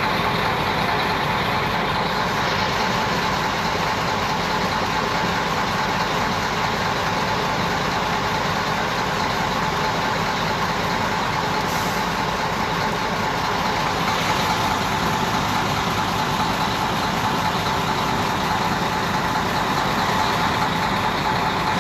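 Steady running noise of a motor vehicle, a truck-like engine with continuous rushing noise, unchanging throughout.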